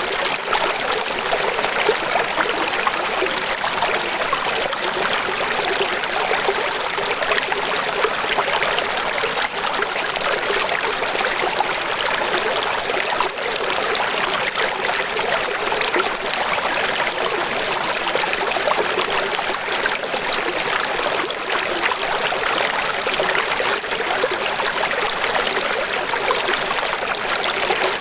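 Steady rushing water ambience: an even hiss with fine, crackling splashes.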